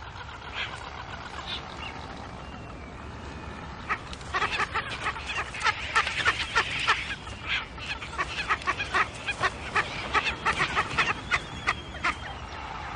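Frigatebirds squabbling at the nest: a few scattered calls, then from about four seconds in a fast run of harsh rattling calls and clattering, several a second, as a rival male is driven off.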